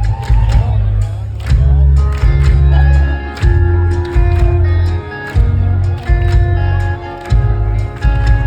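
Live rock band playing an instrumental passage: heavy bass and kick drum in repeated pulses, regular cymbal hits, and sustained electric guitar notes.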